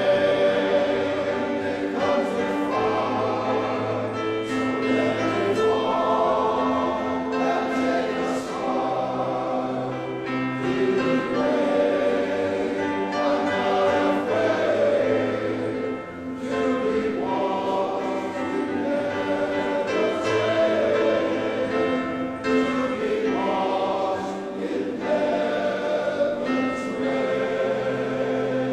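Male voice choir singing a gospel song in full harmony.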